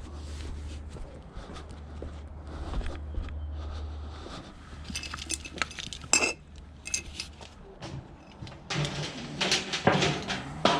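Scrap metal pieces being handled, clanking and clinking: a few sharp metallic clanks around the middle, then a dense clatter with some ringing in the last two seconds. A low steady hum sits under the first four seconds.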